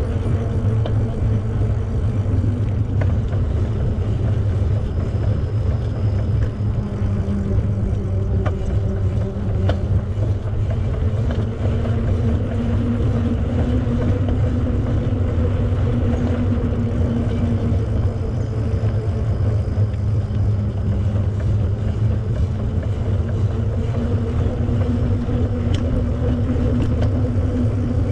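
Steady low wind rumble on the microphone of a moving bicycle, with a faint even hum running under it and a few light clicks.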